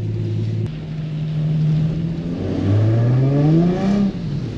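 Nissan 350Z's 3.5-litre V6 engine holding steady revs, then revving up hard about halfway through. It drops off briefly and climbs again near the end, as the car is driven sideways on wet pavement.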